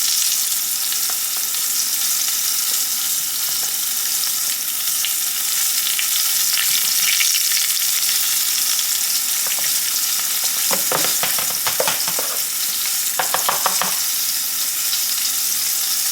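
Flour-coated asparagus spears frying in hot oil in a pan: a steady, loud sizzle. Two short runs of sharper clicks come through about two-thirds of the way in.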